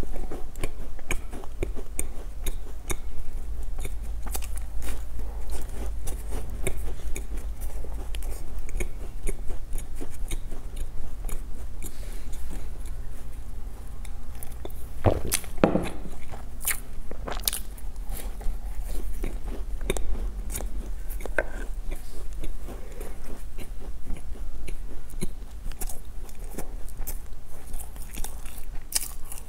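Close-up biting and crunchy chewing of a chocolate-coated biscuit, with many small mouth clicks. About halfway through comes a louder moment of sips and swallows from a glass.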